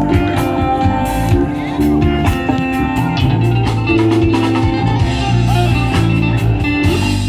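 Band music: electric guitar over a steady bass line and drums, in a bluesy style.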